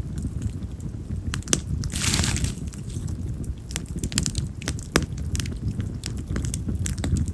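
Split wild cherry (yamazakura) firewood burning in a campfire: frequent sharp crackles and pops over a low steady noise, with a brief hiss about two seconds in.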